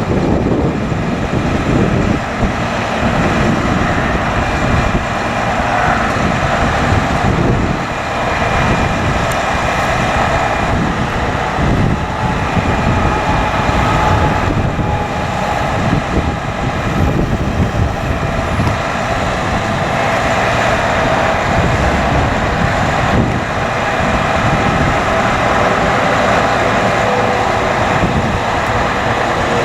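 Diesel engine of a Hino 338 bucket truck running steadily while driving the hydraulics of its Altec TA50MH boom. A faint whine drifts up and down in pitch over the engine drone as the boom moves.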